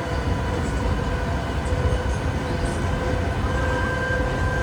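Disneyland parking tram riding along: a steady rumble of the tram in motion, with a few faint steady tones running through it.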